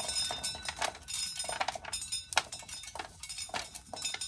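Dry corn kernels clicking and rattling as corn is shelled: many irregular small clicks, fading near the end.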